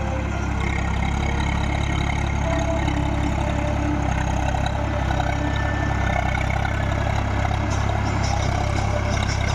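Swaraj tractor's diesel engine running at a steady speed, a low even drone.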